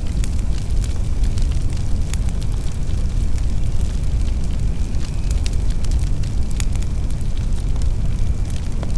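Fireplace fire burning, with a steady low rumble and scattered sharp crackles and pops throughout.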